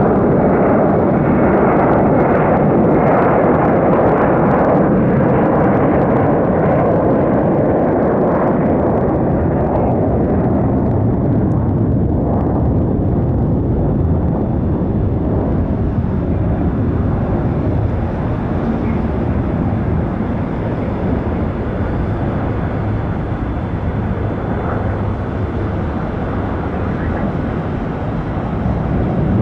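Jet airliner engines, a loud, steady rumble that slowly fades, then rises a little near the end.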